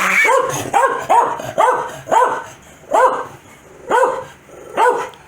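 Corgi barking in a quick series of about nine sharp barks, fast at first and then slowing to about one a second.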